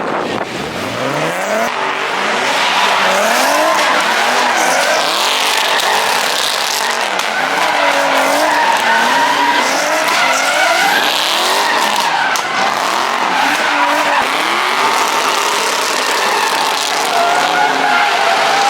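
A car engine revving up and down over and over while its tyres squeal and skid, as a car drifting in circles does.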